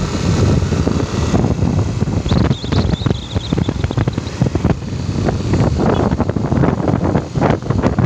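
A vehicle travels along a road, its rumble mixed with heavy wind buffeting on the microphone in irregular gusts.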